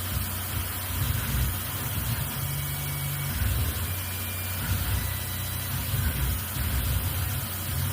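CNC milling machine running, a steady low rumble that swells and fades every second or so, with a faint high tone above it.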